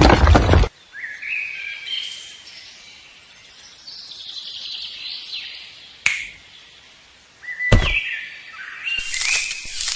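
Birds chirping, with short whistled calls that sweep up and down in pitch. Loud sudden noise bursts break in at the start, about six seconds in, just before eight seconds and near the end.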